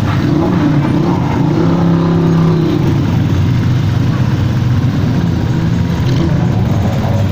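Motorcycle engines running steadily, with one engine note standing out clearly about two seconds in.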